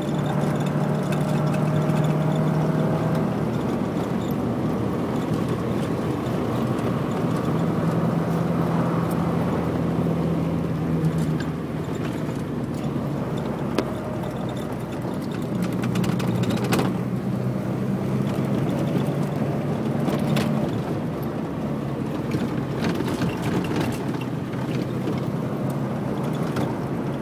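A 1965 Morris Minor's 1098 cc A-series four-cylinder engine running while the car is driven, its note shifting up and down with speed through the bends, over a steady hiss of road noise.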